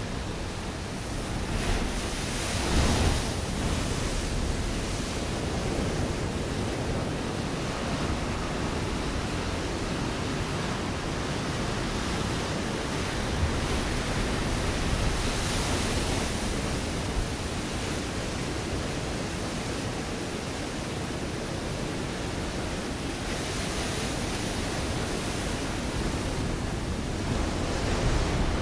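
Ocean waves breaking on a rocky shore: a continuous wash of surf, swelling into louder breaking waves about two to three seconds in, around the middle, and again near the end.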